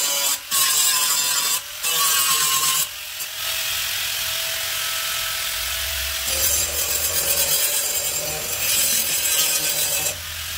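A power tool abrading car body metal with a steady rasping hiss, the motor's faint hum wavering in pitch; it stops briefly three times in the first three seconds.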